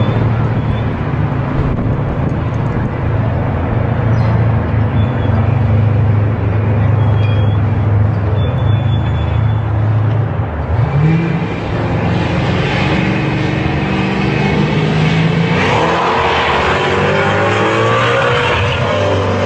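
Drag-racing car engines, a Ford Mustang GT and a Subaru WRX, running at a steady idle, then accelerating hard from about halfway through, the engine note rising in pitch again and again.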